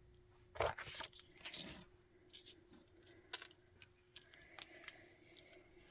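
Soft rustles and a few light clicks from a needle, waxed thread and a paper tag being handled on a tabletop, with a faint steady hum underneath.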